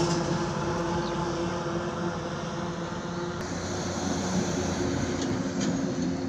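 Highway traffic: a heavy vehicle's engine hum with tyre noise, fading as it moves away and then holding at a lower, steady level.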